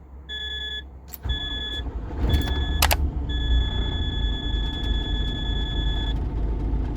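Four electronic warning beeps from a DAF CF truck's cab: three short, then one long of about three seconds. Under them the truck's diesel engine rumbles, growing much louder about a second in and running on. A sharp click sounds near the middle.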